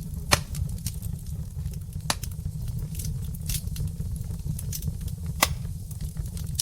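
Wood fire in a fireplace crackling with irregular small snaps and a few louder pops over a steady low rumble of burning logs.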